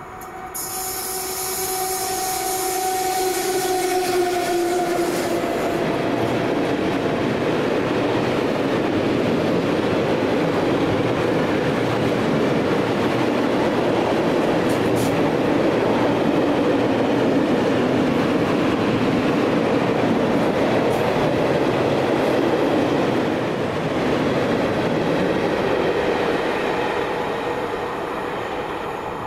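A train passing close by on the line, with loud, steady rolling noise of wheels on rail for most of the time. A steady pitched tone sounds over the first few seconds as it approaches, and the noise eases near the end.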